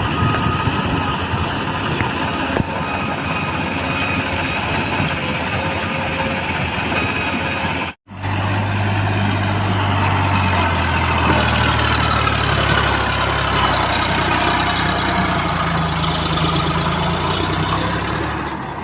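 Diesel engines of a backhoe loader and tractors running steadily. About eight seconds in the sound cuts out for an instant and comes back with a deeper, stronger engine hum.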